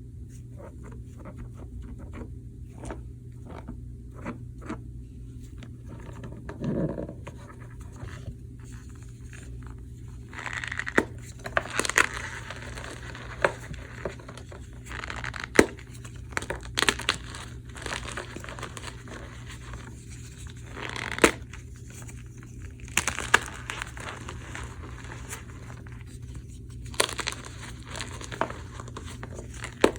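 Blocks of gym chalk dusted with cornstarch being crushed and crumbled by hand: a run of crackles and crunches with sharp cracks, which grow louder and more frequent about a third of the way in. A steady low hum lies underneath.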